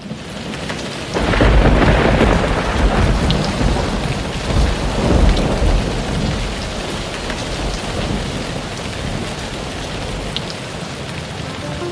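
Thunderstorm: a long rumble of thunder starting about a second in and dying away over several seconds, over steady heavy rain.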